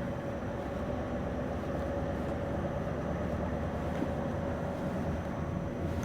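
Scania V8 low-loader truck running steadily at low speed, heard from the driver's cab: a low engine rumble with a steady hum above it.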